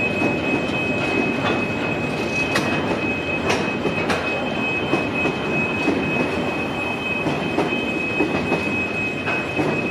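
Container freight train wagons rolling past on narrow-gauge street track with a steady rumble and a steady high-pitched wheel squeal. A few sharp clicks come between about 2.5 and 4 seconds in as the wheels pass over the rail.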